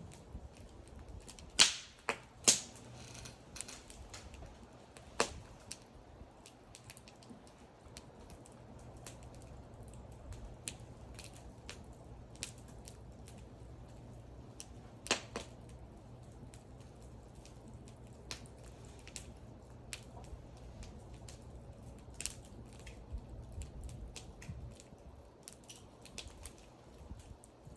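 Wood fire crackling: irregular small ticks and snaps, with a few loud pops, two close together about two seconds in, one about five seconds in and one about fifteen seconds in, over a low steady rumble.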